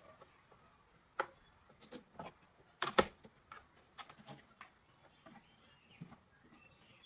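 Scattered light clicks and taps at uneven intervals, the loudest about three seconds in, with faint chirps in the background.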